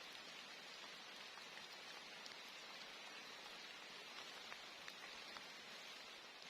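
Steady rain falling: a soft, even hiss with scattered faint ticks of individual drops.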